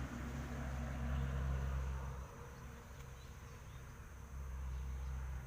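Insects buzzing, a low drone close by that stops about two seconds in and comes back near the end, over a thin steady high insect tone.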